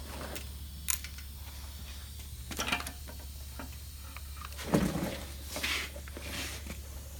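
A few short, light knocks and clicks, spaced about a second apart, over a steady low hum.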